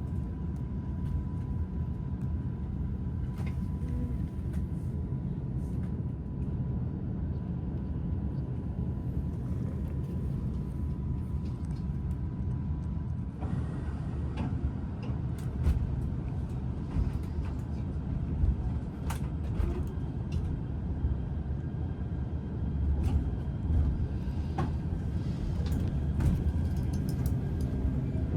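Cabin of a JR Shikoku Shiokaze limited-express electric train pulling away from a station and running: a steady low rumble. A thin steady tone sounds through roughly the first half, and there are a few faint clicks later on.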